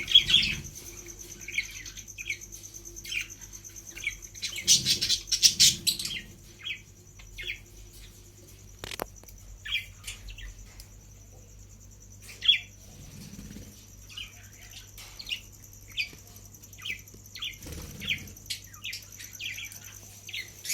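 Parrot chicks giving short, repeated chirps. About five seconds in there is a brief flurry of wing flapping.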